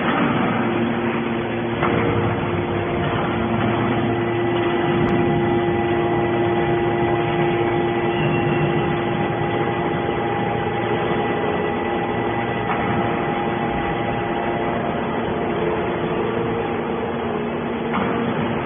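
Hydraulic scrap metal baler running steadily: a constant machine drone with a steady whine over it and an occasional faint knock.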